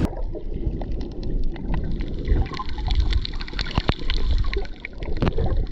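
Shoreline water sloshing and gurgling, with a low rumble and many scattered small clicks and ticks.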